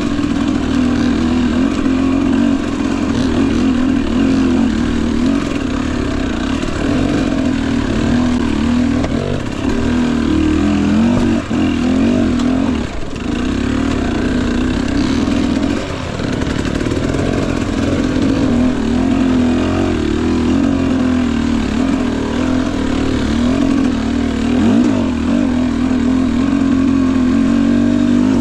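Two-stroke engine of a Husqvarna TE250i dirt bike running steadily at low to moderate revs while riding. Its pitch wavers with small throttle changes and dips briefly a few times.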